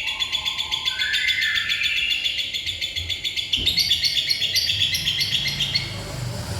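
Lovebird singing a long, unbroken song of rapid repeated chirps, the nonstop 'bocor' style with mimicked fill notes ('isian'). A brief low thump comes about halfway through.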